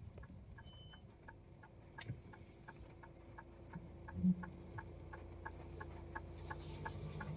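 A car's indicator relay ticking evenly, about three clicks a second, heard inside the cabin over a faint steady hum from the idling engine.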